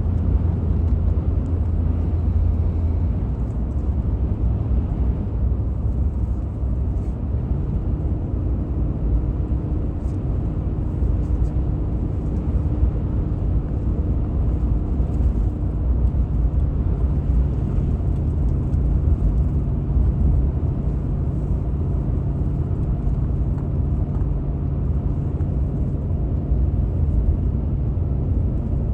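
A vehicle driving, heard as a steady low rumble of engine and road noise. A faint engine hum holds one pitch for several seconds, then settles to a lower note about halfway through.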